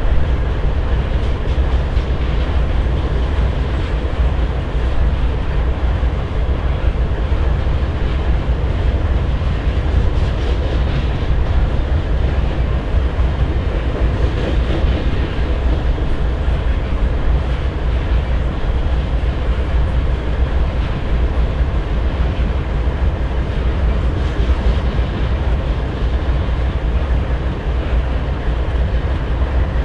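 Coal train cars rolling past at steady speed, a continuous wheel-on-rail rumble with clickety-clack from the rail joints, alongside the low throb of idling GE ES44AC diesel locomotives.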